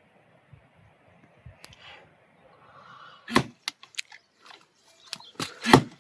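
A dog chewing food: quiet at first, then a few sharp crunches just over three seconds in and a louder run of crunches near the end.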